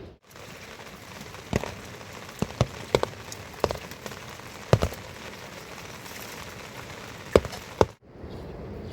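Steady rain falling, with about nine heavier drops or drips striking close by, scattered irregularly.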